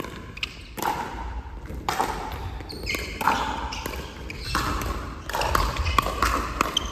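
A ball being struck and bouncing repeatedly, with sharp knocks scattered through, and voices in between.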